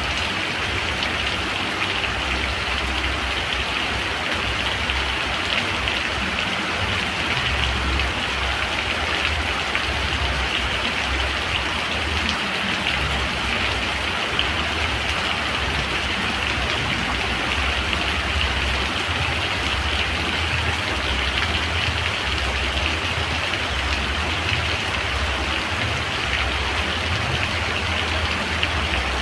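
Steady rain falling, an even hiss that does not let up, with a low rumble underneath.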